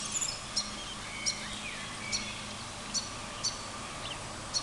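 A bird repeating a short, high, sharp chirp about once a second, each note dropping slightly in pitch, over a steady outdoor background hiss.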